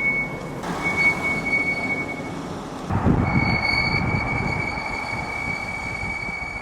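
BMW X7 brakes squealing: a steady high-pitched squeal with a thinner overtone above it, which drops out briefly about two and a half seconds in and comes back louder over the low rumble of the moving car. This is the brake noise the owner complains of, which BMW puts down to the composition of its German brake pads.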